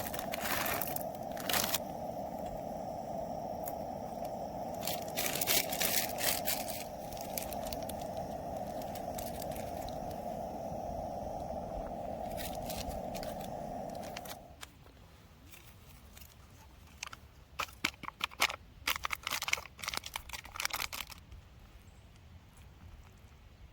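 A portable gas burner hissing steadily under light scrapes and clicks of cookware, cut off suddenly about fourteen seconds in. Brief bursts of clicking and crinkling handling noises follow.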